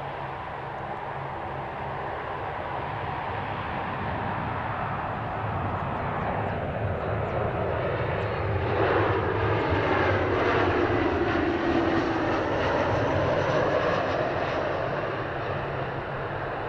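Boeing 737-800 jet engines as the airliner passes close by, growing louder to a peak around the middle with a pitch that falls as it goes past.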